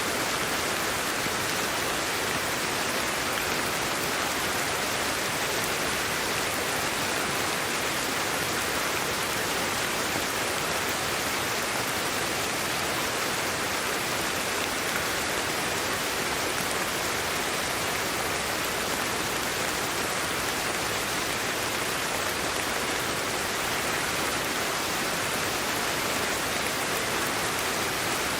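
Sleep-aid white noise: a steady, unchanging hiss with a soft rain-like quality and no separate events.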